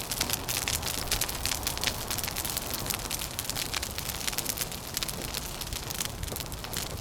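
Wood fire crackling, with dense pops and snaps over a steady low rumble.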